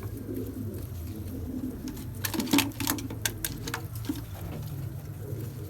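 Domestic pigeons cooing in low, wavering tones. A quick run of sharp clicks or taps comes about two to three and a half seconds in.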